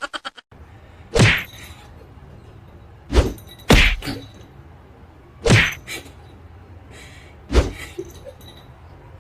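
About six sudden, loud knocks or thuds, spaced unevenly over several seconds, over a steady background hiss.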